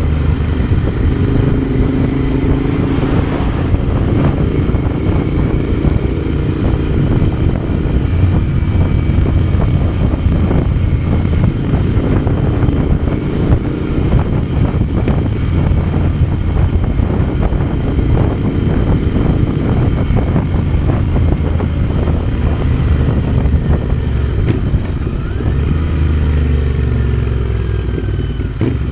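Motorcycle engine running under way, with rushing wind noise on the microphone; the engine note changes pitch near the end.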